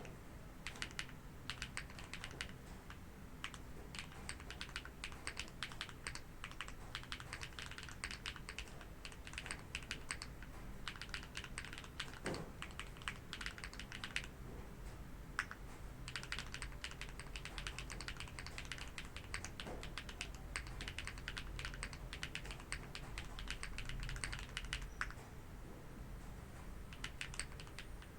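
TKD Cycle 8 mechanical keyboard, a plateless build with HMX Green Apple switches, being typed on: runs of quick keystroke clacks with a few short pauses, and one deeper, louder stroke a little before halfway.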